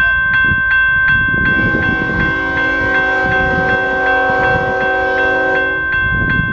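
Railroad crossing bell ringing steadily, about three strikes a second, over the rumble of a passing train. About two seconds in, the locomotive's horn sounds one long chord blast lasting about four seconds.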